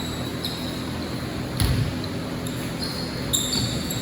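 Basketball game on a gym court: sneakers squeak on the floor in short high chirps, and a ball bounces once about a second and a half in, over a steady low hum.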